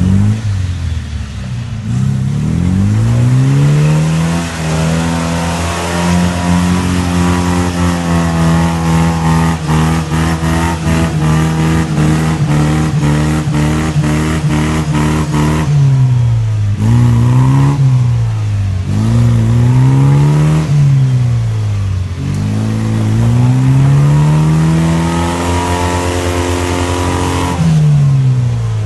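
UAZ-469's stock UMZ-417 four-cylinder petrol engine revving hard: its pitch climbs and holds high for about ten seconds, then the revs rise and fall several times in quick succession before climbing again and dropping near the end.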